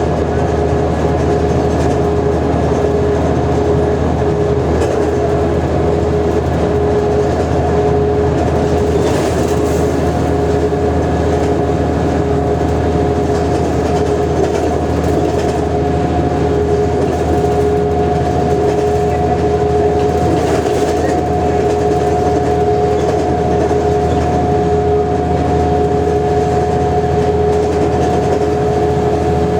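Mercedes-Benz O345G articulated diesel bus running steadily, a constant drone with two steady whining tones over the road and engine noise.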